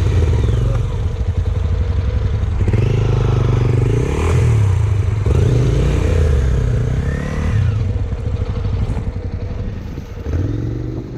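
Honda NC700 motorcycle's parallel-twin engine running on the move, its pitch rising and falling a few times as the throttle opens and closes, over steady road and wind noise. It gets quieter near the end.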